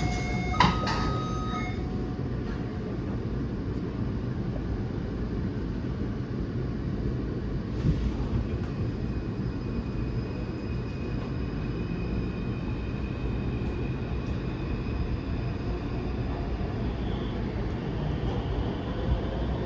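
Taipei Metro Bannan Line train running between stations: a steady low rumble of wheels and running gear, with a faint steady whine in the middle. A short electronic chime sounds in the first two seconds.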